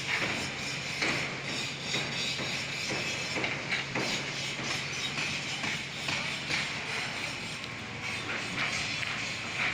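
Construction site noise: irregular knocks and clanks over a steady hum.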